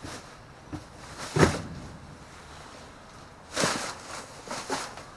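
Short knocks and rustles of things being handled and moved about in a dumpster. The sharpest knock comes about a second and a half in, with a cluster of rustling scrapes a couple of seconds later.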